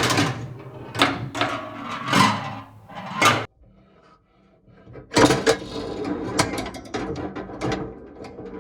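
Clicks, knocks and clattering of wooden and metal mechanical parts being worked by hand. It cuts off suddenly about three and a half seconds in and starts again a second and a half later.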